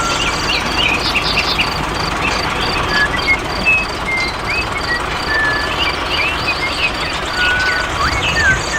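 Birds chirping and calling in short whistled notes and quick glides over a steady rushing background, with an insect's high pulsing trill at about five pulses a second.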